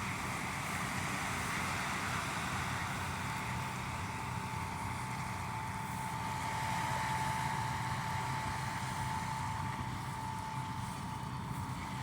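Engine running steadily with a low hum over a steady hiss, and a thin steady whine that comes up about four seconds in.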